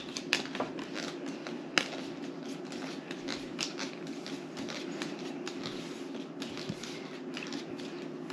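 Faint clicks and rustles of small objects being handled, with one sharper tick a little under two seconds in, over a steady low hum.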